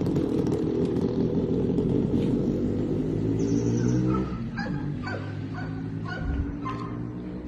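Motorcycle engine running, dropping away about four seconds in. A dog then barks in a run of short, repeated barks.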